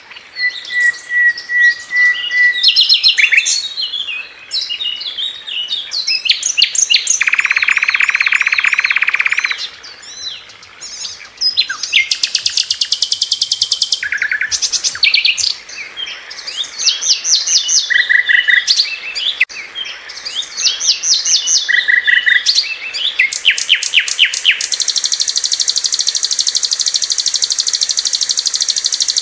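Sikatan londo flycatcher singing continuously, a varied run of phrases: a level whistle near the start, fast chattering trills, a harsh buzzy note several seconds long around a third of the way in, and a long rapid high trill held through the last few seconds.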